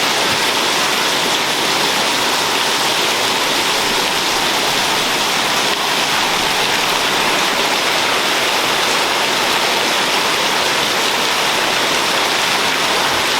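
Heavy tropical rain pouring down steadily, a dense, even hiss of water.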